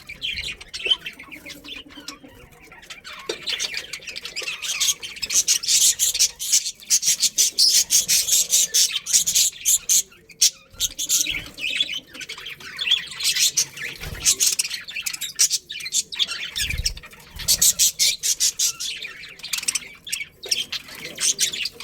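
A group of budgerigars chattering, with rapid, overlapping chirps and squawks that continue without a break.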